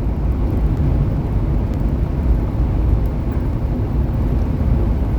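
Semi truck running down the highway: a steady low engine and road rumble.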